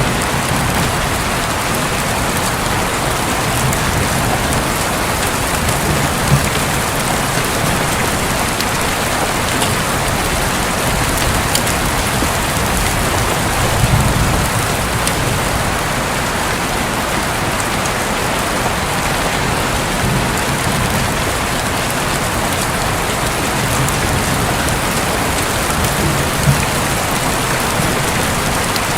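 Steady rain falling on a roof, an even hiss of drops, with a few brief low rumbles about 6, 14 and 26 seconds in, like distant thunder.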